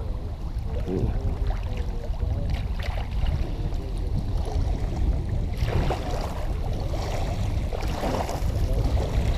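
Wind rumbling on the microphone over water splashing around a kayak being paddled, with a few louder splashes from paddle strokes.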